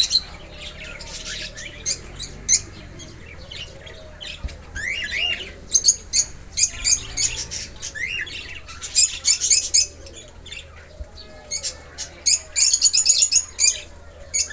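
Young cockatiels calling: many short, high chirps and squawks, some sliding up or down in pitch, coming in quick runs that are busiest about nine seconds in and again near the end.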